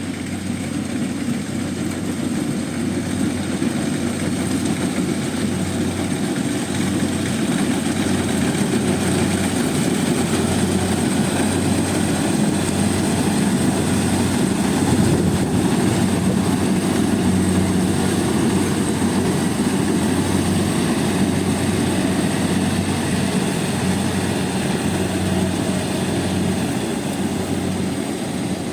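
Combine harvester's diesel engine running steadily with a low drone, swelling a little louder toward the middle and easing off near the end.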